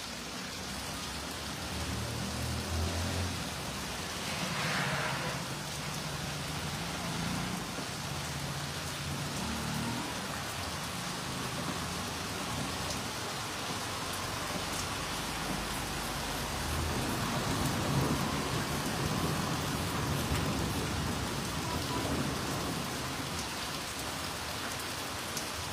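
Heavy rain falling steadily, an even hiss of rain on roofs and surfaces.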